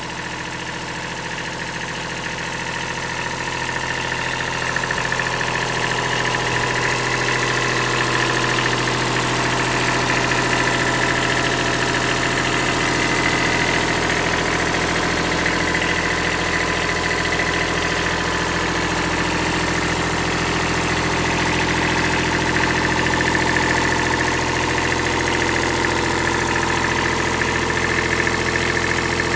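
Kubota B7001 compact tractor's three-cylinder diesel engine running steadily, growing a little louder over the first few seconds.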